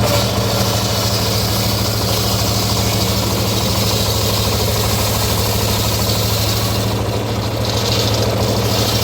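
The engine of a homemade circular sawmill running steadily, a low even drone with a fast regular knock.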